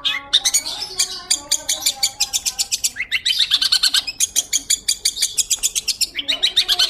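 Long-tailed shrike (pentet) singing: a fast, continuous run of sharp, high chips at about ten a second, with lower warbling notes woven in at the start and again near the end.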